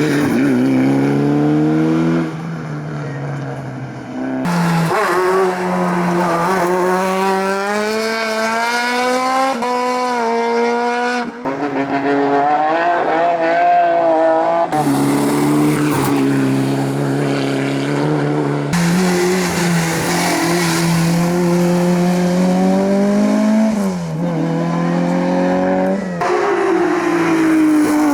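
Hillclimb competition cars accelerating hard, one after another: engines revving up through the gears with the pitch dropping at each shift, and some tyre squeal.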